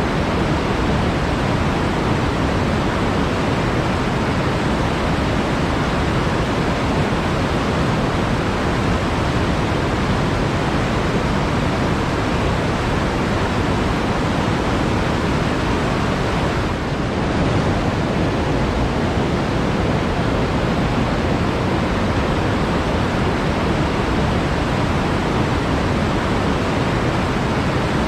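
Steady, even rushing of flowing forest water, with a brief dip about two-thirds of the way in.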